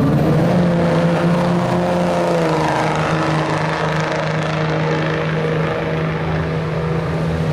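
Race vehicle engines droning steadily on a drag strip, the pitch dipping slightly about two and a half seconds in.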